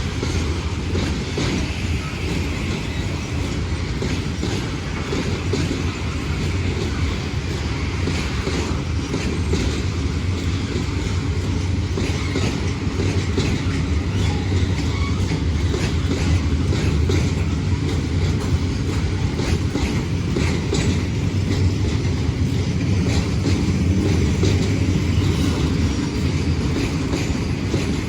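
A train running past on the rails: a steady rumble of rolling wheels with repeated clicks as they cross the rail joints.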